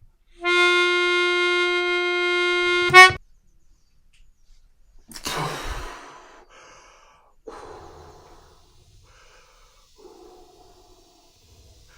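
A single held harmonica note, about two and a half seconds long, ending in a short loud blast. A few seconds later come two short breathy sounds.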